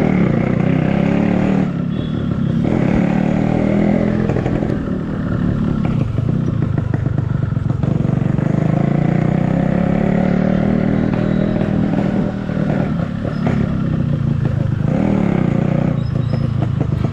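Yamaha RX two-stroke motorcycle engine running steadily, its note easing off briefly a few times.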